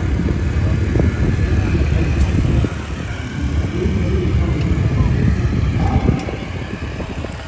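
Motor vehicle noise: a loud, unsteady low rumble that dips a little twice.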